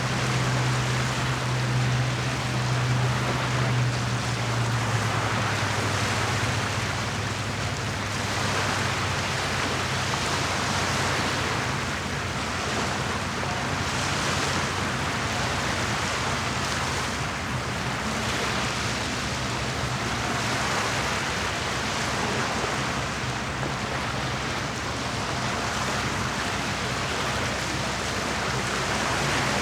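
Small lake waves washing and lapping in a steady wash that swells gently every few seconds. A low motor hum sits under it and fades out within the first several seconds.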